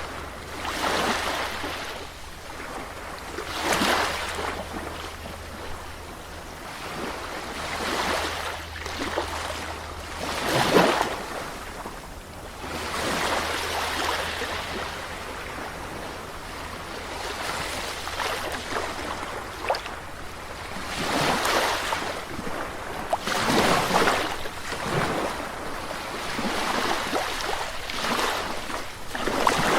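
Sea waves breaking and washing on a shore, swelling and falling every few seconds, with a few stronger breakers among them.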